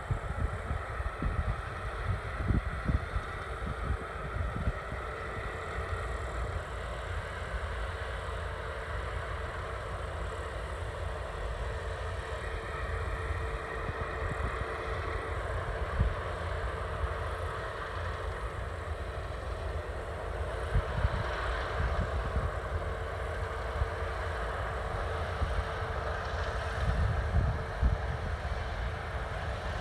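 Harvest machinery running steadily, a combine harvester or tractor working in the field, with a constant hum and irregular low rumbles and knocks.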